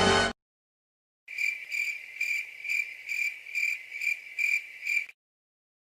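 Music cuts off abruptly just after the start. After a second of silence, crickets chirp in a steady, even rhythm of about two chirps a second for nearly four seconds: the stock cricket sound effect used to mark an awkward silence.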